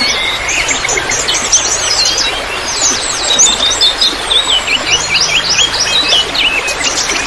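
Several songbirds chirping and trilling busily over a steady trickle of running water.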